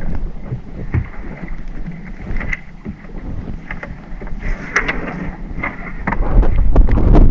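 Small fishing boat at sea with wind buffeting the microphone and scattered short knocks, the low rumble growing much louder about six seconds in.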